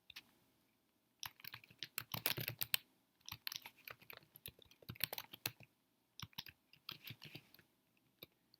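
Typing on a computer keyboard in quick runs of keystrokes, with short pauses between the runs.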